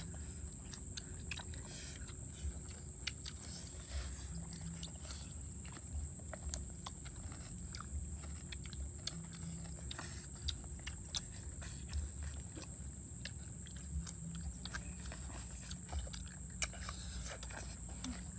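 People chewing and lip-smacking as they eat stir-fried pork and raw salad greens, with many small wet clicks and smacks. A steady high-pitched tone runs underneath.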